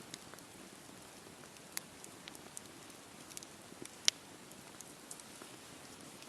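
Wood campfire burning: a soft steady hiss with irregular crackles and pops, one sharp pop about four seconds in much louder than the rest.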